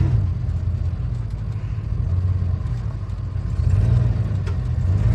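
Off-road vehicle's engine running with a low rumble, swelling briefly near the start and again about four seconds in.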